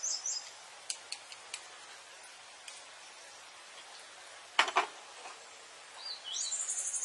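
Rural outdoor sounds: a small bird chirping in a quick series at the start, then a few light clicks. About two-thirds of the way through comes a single sharp clatter as the basket of fish and vegetables is handled. Near the end a bird gives a loud, high, rapid trill.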